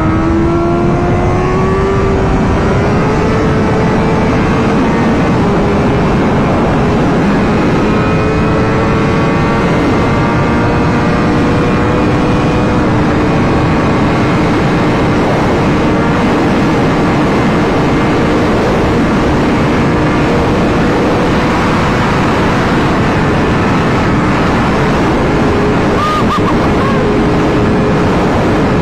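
Honda CBR1000RR-R Fireblade's inline-four engine running steadily under a constant rush of noise. Its pitch creeps up over the first few seconds and then holds.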